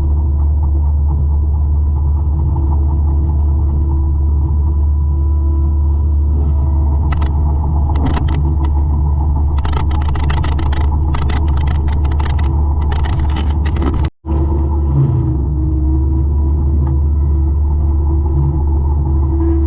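A 200-horsepower forestry mulcher runs steadily with a deep, loud drone. From about seven to thirteen seconds in come repeated short bursts of crackling noise as the mulching head chews through brush. The sound breaks off for an instant about fourteen seconds in.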